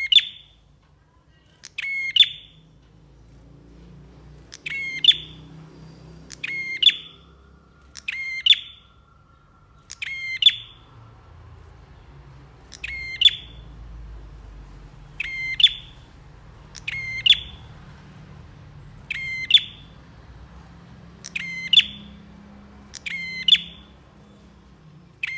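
A prinia (prenjak) calling: a short, sharp, rapid chattering burst, repeated about a dozen times at intervals of roughly two seconds, over a faint low rumble.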